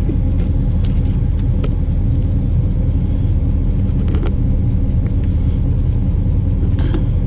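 A diesel truck engine idling steadily, a constant low rumble, with a few light clicks and knocks.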